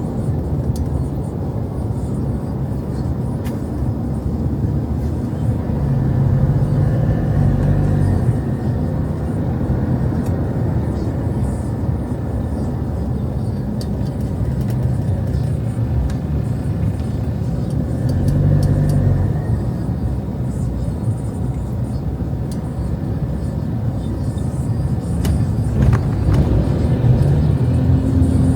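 Road traffic: cars passing on a street, a steady low rumble of engines and tyres.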